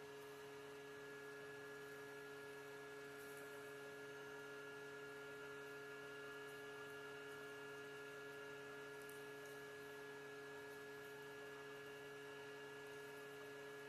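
Greenworks lawnmower battery charger running with a faint, steady fan-like hum and several steady whining tones.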